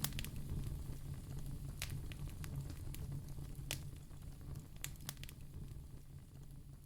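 Wood fire burning in a fireplace: soft crackling with a dozen or so sharp pops, some in quick pairs, over a low steady rumble, growing gradually quieter.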